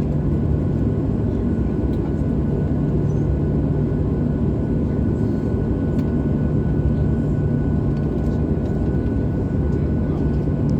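Boeing 737-800 cabin noise in flight: the steady low drone of its CFM56 jet engines and rushing airflow, with a constant hum under it.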